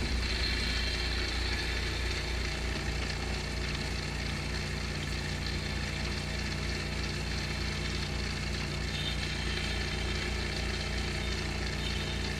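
Oil-extraction vacuum pump running with a steady hum, drawing the last of the used engine oil out of a Honda EU2000 generator's crankcase through a pipe.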